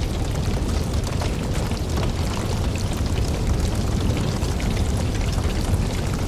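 Campfire burning: a steady low rumble of flames with dense, continuous crackling and popping of burning wood.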